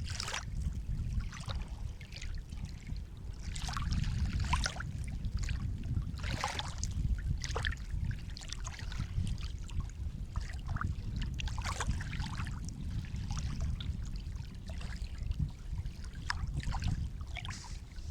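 Sea water lapping and splashing, many small irregular splashes and trickles over a steady low rumble of the sea.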